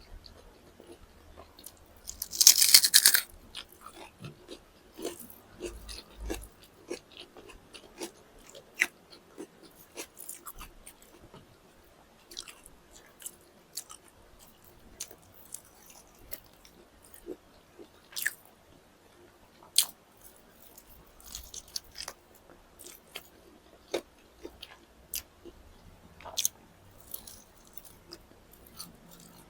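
Close-up sounds of a person biting and chewing chicken drumsticks and rice, with mouth clicks and smacks scattered throughout. A loud second-long crunching burst about two seconds in is the loudest sound.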